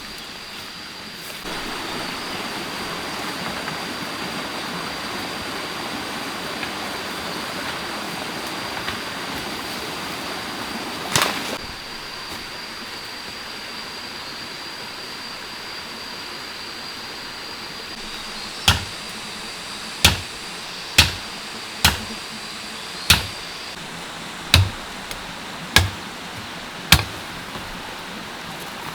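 Sharp chopping strikes of a blade on bamboo, about one a second, starting about two-thirds of the way in, over a steady hiss and a steady high-pitched tone. A single knock comes a little before the middle.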